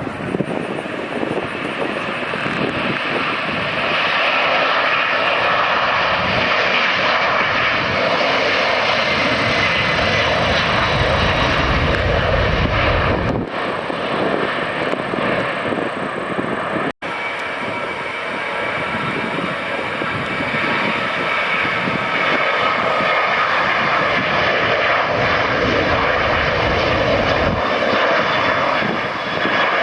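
Jet airliner engines running loud and close, a dense steady noise with faint gliding whine tones. The sound cuts out for an instant about seventeen seconds in.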